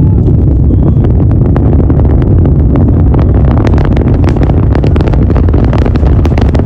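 SpaceX rocket launch heard from the viewing area: a loud, steady low rumble from the rocket's engines, with crackling that grows denser about halfway through.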